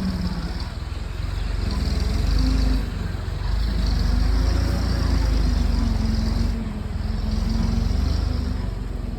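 A vehicle engine running steadily, its loudness swelling and easing several times, with dips about three seconds in and again near seven seconds.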